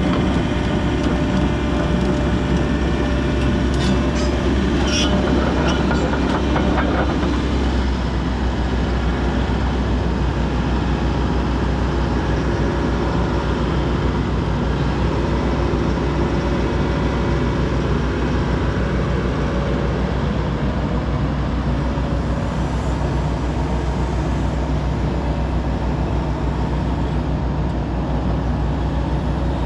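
Hitachi 135 excavator's diesel engine running steadily under operation, with a few short knocks and squeaks about four to seven seconds in.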